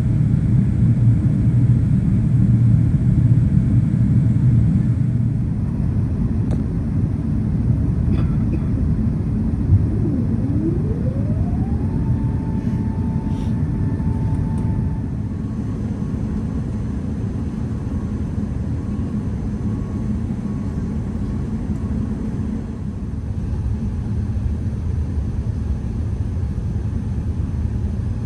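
Airbus A380 cabin noise on approach: a steady low rumble of engines and airflow. About ten seconds in, a whine rises and then holds level for a few seconds.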